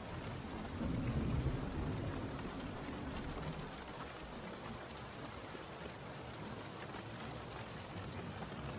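Steady rain falling, with a low rumble of distant thunder swelling about a second in and fading away by the middle.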